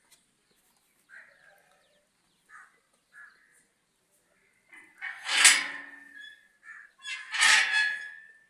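Birds calling: a few short faint chirps, then two loud harsh calls about two seconds apart.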